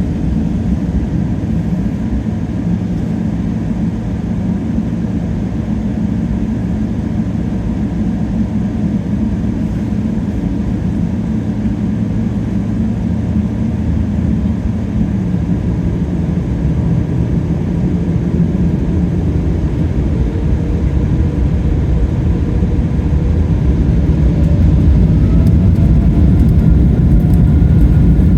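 Boeing 777-300ER's GE90-115B turbofans heard from inside the cabin: a steady low rumble that, from about halfway through, grows louder with a faint whine rising in pitch as the engines spool up to higher thrust.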